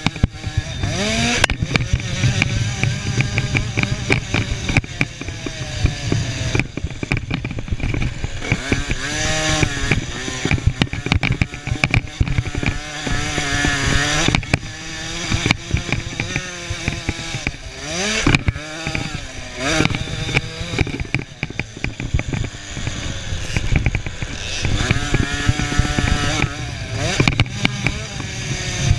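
Small two-stroke engines of 50cc KTM motocross bikes revving hard, their high buzzing pitch climbing and dropping off again and again as the riders work the throttle around the track.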